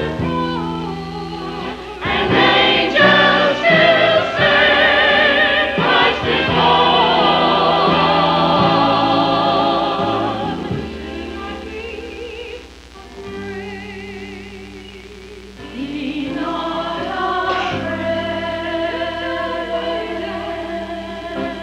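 Church chancel choir singing a Christmas cantata, loud and full for several seconds, softening briefly past the middle, then building again.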